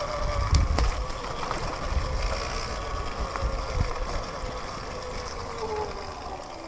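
Sur-Ron electric dirt bike's motor whining under way: the pitch rises at the start, holds steady, then falls away near the end as the bike slows, over a low rumble with a few knocks from riding over rough ground.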